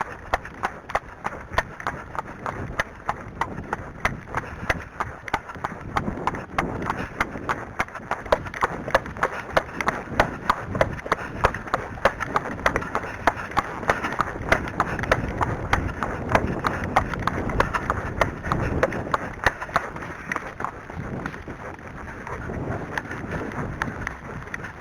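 Arabian horse's hoofbeats under a rider on wet, muddy ground: a steady run of sharp beats, several a second, growing louder in the middle stretch.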